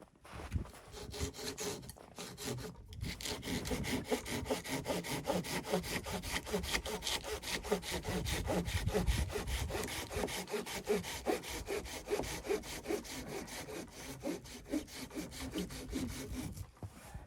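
Hand saw cutting through wood in quick, even back-and-forth strokes, pausing briefly about three seconds in, then sawing steadily on until it stops near the end.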